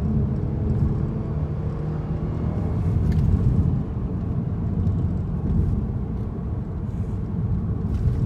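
Genesis DH 3.3-litre V6 running through an aftermarket Sematech DRS variable exhaust with a straight-through mid-pipe, giving a steady low exhaust rumble.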